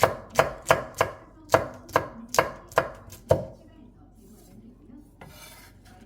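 A kitchen knife chopping on a cutting board: about ten quick strikes, roughly three a second, that stop about three and a half seconds in. A short hiss follows near the end.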